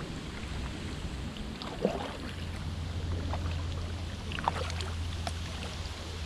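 Kayak paddling on a river: paddle blades dipping into the water with small splashes and drips, a few sharper splashes standing out, over a steady low rumble that comes in about two seconds in.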